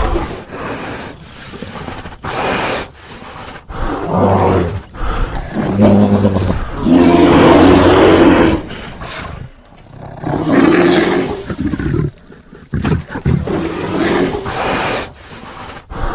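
A string of cartoon bear roars and growls from animated-film sound effects: several separate roars of a second or two each with short gaps between, the longest and loudest about halfway through.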